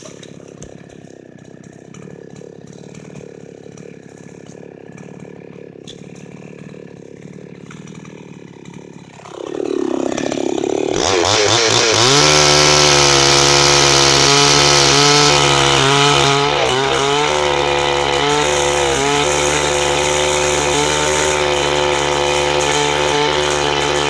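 Chinese-made gasoline chainsaw idling for about nine seconds, then throttled up with a rising whine to a loud, steady high-revving run that holds to the end.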